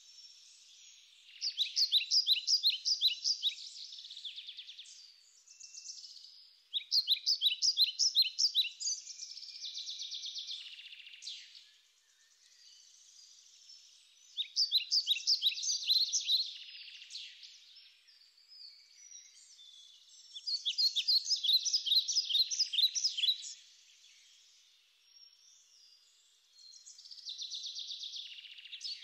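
A small songbird singing: phrases of rapid, high trilled notes, each lasting two to three seconds, repeated every five or six seconds.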